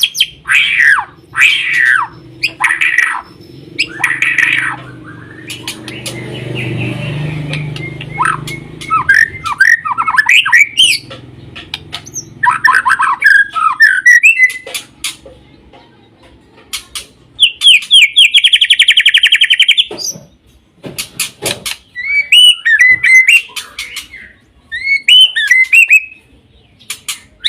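White-rumped shama (murai batu) singing loud, varied phrases in short bursts of whistles and chatters, with a fast rattling trill of about two seconds about two-thirds of the way in.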